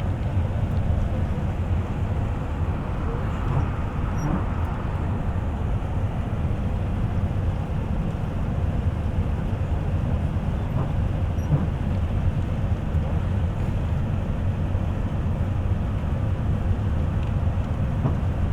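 Steady low rumble inside a moving bus's passenger cabin: engine and tyre noise at a constant cruising pace.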